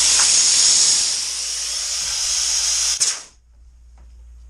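Compressed air hissing steadily out of the trigger area of a Bostitch pneumatic framing nailer: a trigger valve leak past its O-rings and seals. The hiss cuts off suddenly with a click about three seconds in.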